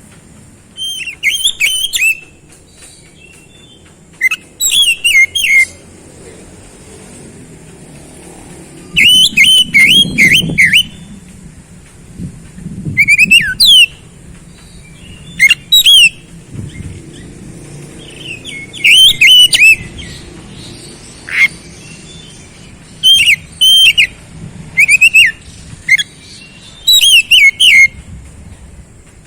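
Oriental magpie-robin (kacer) singing in short, loud bursts of rapid whistled notes with sweeping high flourishes, a new phrase every one to three seconds. It is the vigorous 'gacor' song used to coax a silent kacer into singing.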